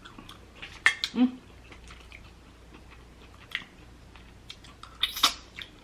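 Close-miked eating: chewing and wet mouth sounds of someone eating spicy Dungeness crab legs from a seafood boil, with scattered small clicks and a louder noisy burst about five seconds in.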